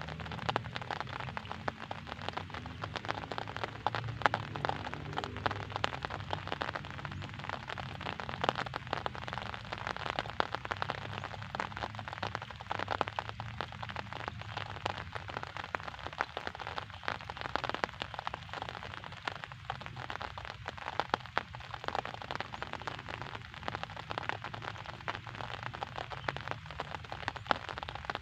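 Steady rain falling, a dense patter of drops with many sharp little taps, over a faint low rumble.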